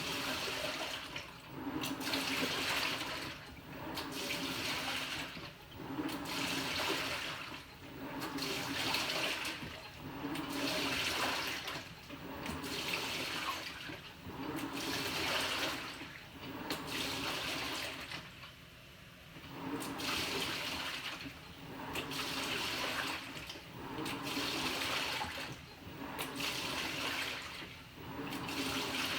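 Panasonic NA-FA100H9 top-loading washing machine in its wash stage: water and laundry slosh in regular swells about every two seconds as the drum's water is churned back and forth, with one brief pause a little past the middle.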